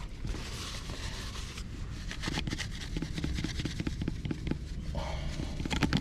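Handling noise: a rub or rustle lasting about a second and a half, then scattered light clicks and taps, with another short rustle near the end.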